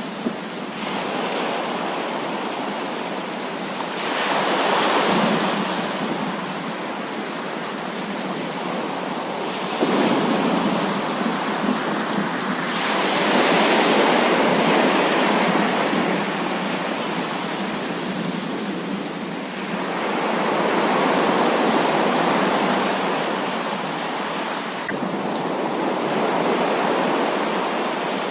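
Heavy rain falling in a dense, steady hiss that swells louder and eases off several times.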